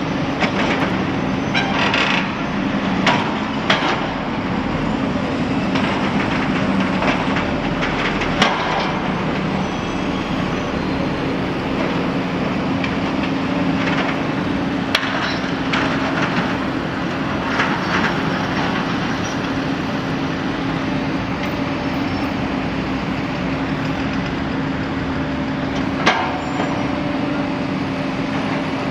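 Steady low hum of idling engines under scattered distant firework bangs. The bangs come as several in the first few seconds, a few around the middle and a single one near the end.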